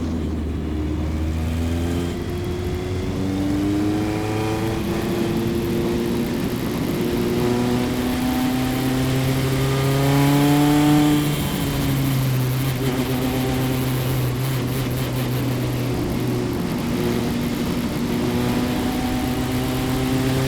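Single-seater race car's engine heard onboard while rolling before the race start, its pitch climbing slowly for several seconds, dropping sharply about eleven seconds in, then holding nearly steady.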